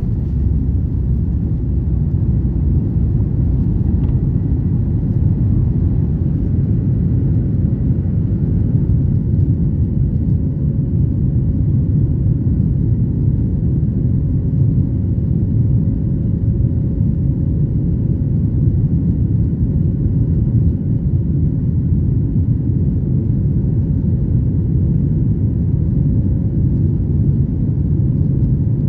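Airplane cabin noise: a steady low rumble of engines and airflow, with a faint steady hum above it.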